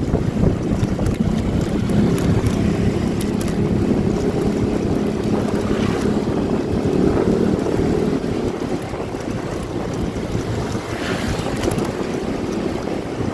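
Motorcycle engine running while riding, with heavy wind buffeting the microphone. The engine hum strengthens and climbs slightly in pitch as the bike accelerates, then eases off about two-thirds of the way through.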